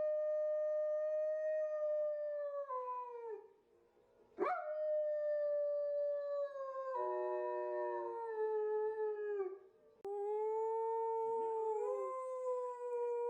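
A dog howling: three long drawn-out howls, each sagging in pitch at its end. A second, lower-pitched voice joins briefly during the middle howl.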